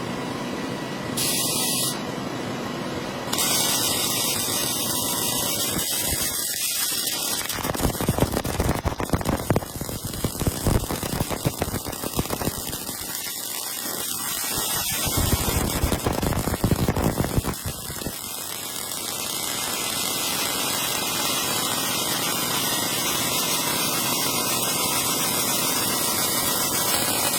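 Steady hissing machine noise, like a spray gun, broken by two spells of rough crackling, one about a third of the way in and one past halfway.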